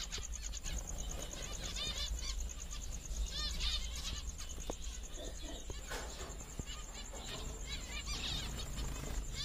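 Small birds chirping in quick repeated bursts, over a steady high pulsing buzz.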